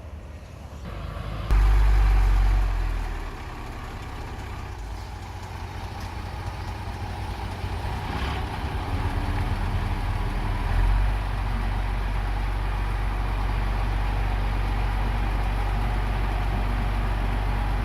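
Diesel engine of a mini Komatsu bulldozer running with a steady low drone. It jumps suddenly louder about a second and a half in, drops back after a second or so, then builds slightly and holds steady.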